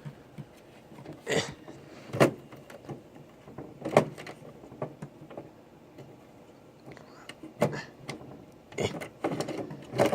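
Scattered clicks and knocks of a hard drive and metal computer-case parts being handled, about half a dozen separate sharp hits spread over several seconds.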